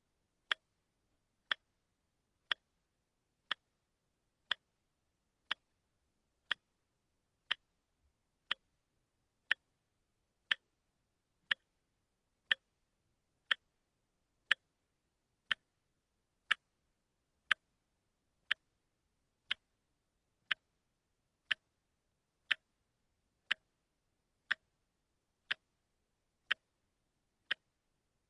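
Quartz watch ticking steadily once a second, each tick a short sharp click.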